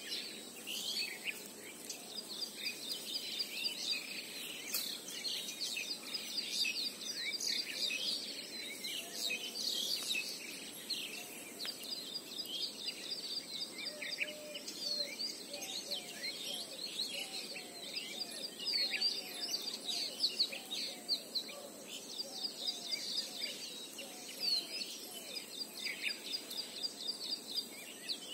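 Many small birds chirping and twittering, quick high calls overlapping throughout, with a thin steady high-pitched tone running beneath them.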